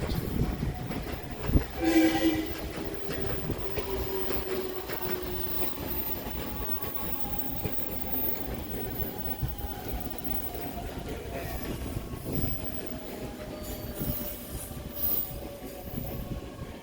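Electric train pulling in and braking: the whine of its motors falls slowly and steadily in pitch as it slows, over the rumble of the wheels on the rails. A short horn-like toot sounds about two seconds in.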